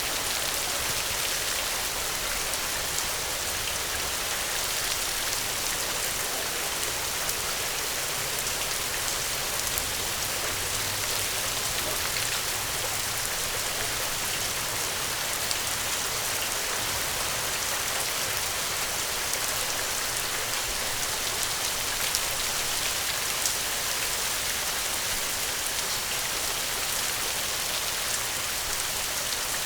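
Steady, dense rain: a constant even hiss with faint scattered ticks.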